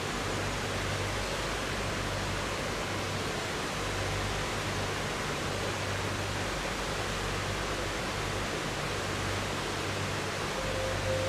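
River water flowing in a steady, even rush. Near the end a sustained ringing tone comes in.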